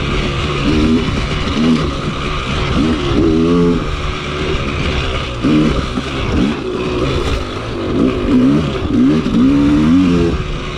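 Two-stroke dirt bike engine being ridden hard, its revs rising and falling again and again as the throttle is opened and closed.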